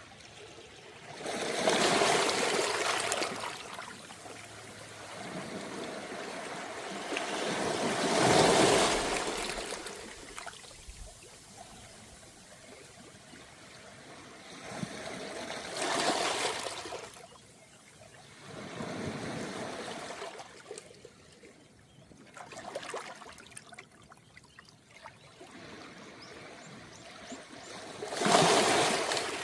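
Small, calm waves washing onto a beach of smooth round pebbles, each surge swelling to a hiss and then draining back with a trickle through the stones. About five waves come in, the strongest near the start, about eight seconds in and near the end.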